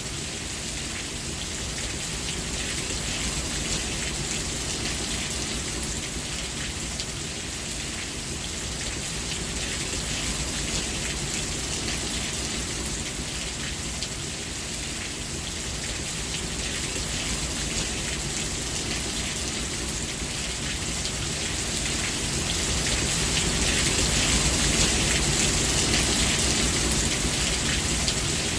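Steady rain falling, a dense even hiss of countless drops, growing a little louder in the last several seconds.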